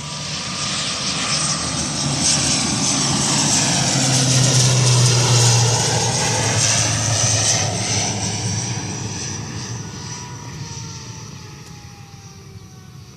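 Twin-turboprop airliner's engines and propellers at take-off power as it passes by and climbs away. The sound swells to its loudest about five seconds in, then fades steadily.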